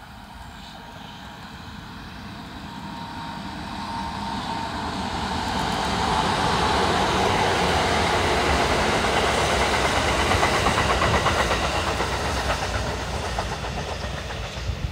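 Kintetsu electric express train passing: its rolling rumble builds as it approaches, peaks with rapid clicking of wheels over rail joints in the middle, and fades as it moves away near the end.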